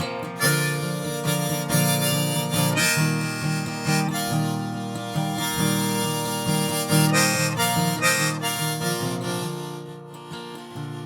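Harmonica solo over strummed acoustic guitar in an instrumental break of a folk song. The harmonica fades out near the end, leaving the guitar quieter.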